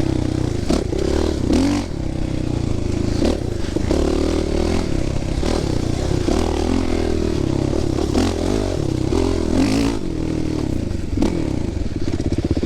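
Dirt bike engine running on a trail ride, its pitch rising and falling again and again as the throttle is worked, with scattered clattering and scraping knocks over the top.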